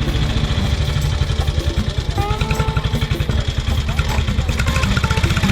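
Engine of a classic vehicle idling, with a rapid, even exhaust pulse and faint voices in the background.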